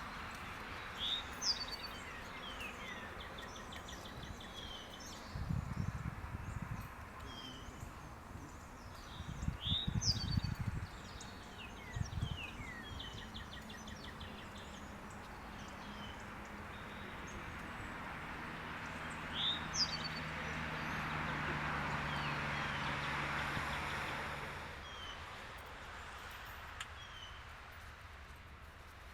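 Small birds calling in woodland: short sharp chirps, a few quick rattling trills and falling whistles, repeated throughout. Low rumbles of wind on the microphone come twice in the first half, and a rush of wind swells and fades a little past the middle.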